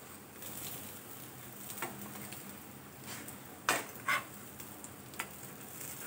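Semolina-coated sweet corn cutlets shallow-frying in oil in a non-stick pan on low gas, a faint steady sizzle. A spatula clicks and scrapes against the pan a few times as the cutlets are turned over, loudest about three and a half and four seconds in.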